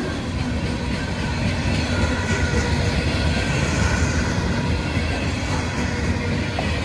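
CSX freight train rolling past, a steady, loud rumble of wheels on rail.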